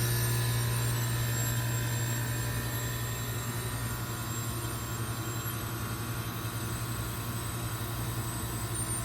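2005 York Olympian (Latitude 10) heat pump outdoor unit running through a defrost cycle: a steady low compressor hum over a faint hiss, taking on a light pulsing beat about three seconds in.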